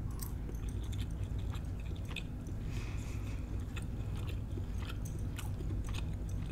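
A person chewing a mouthful of crab cake, with many small wet mouth clicks and smacks over a steady low hum.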